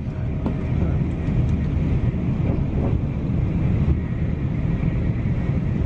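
Moving passenger train heard from inside the carriage: a steady low rumble of running gear on the rails with a constant hiss over it.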